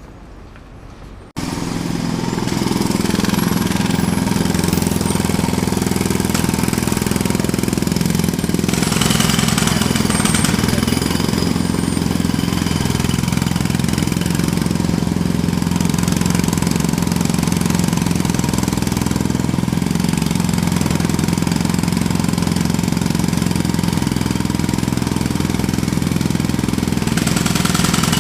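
Jackhammer starting abruptly about a second in and then running continuously and loudly.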